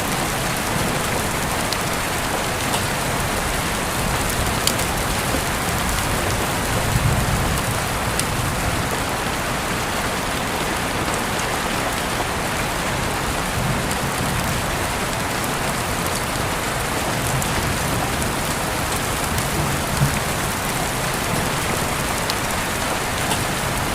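Steady rain falling on a surface, an even hiss with scattered sharp drop ticks and a faint low rumble now and then.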